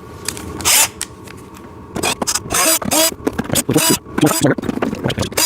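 Plastic scraping and clicking as the battery compartment cover of a ride-on toy backhoe is worked open by hand, a short scrape about a second in, then a busy run of scrapes and clicks.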